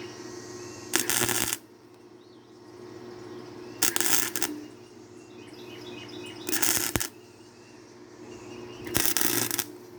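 Wire-feed welder laying four short crackling bursts of weld, each about half a second long and two to three seconds apart.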